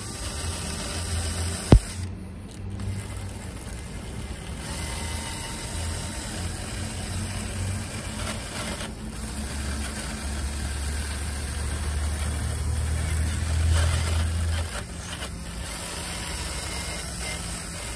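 An engine running steadily with a low hum that swells and eases, with one sharp click about two seconds in.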